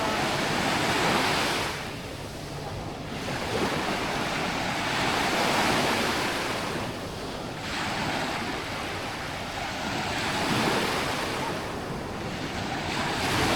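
Small waves of a calm sea breaking and washing up a sandy shore, the wash swelling and fading every two to four seconds.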